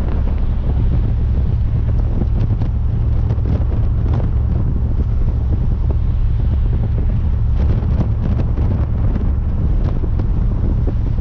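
Pickup truck's 410 cubic-inch Magnum V8 stroker with its new exhaust droning steadily while driving, mixed with wind and road noise.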